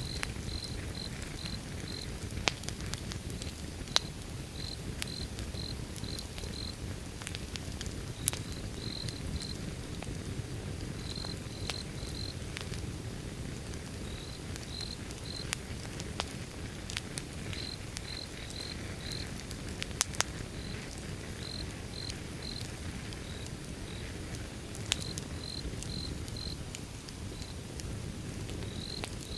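Wood fire burning: a steady low rumble with sharp crackles and pops every few seconds. A cricket chirps throughout in short runs of three or four high chirps.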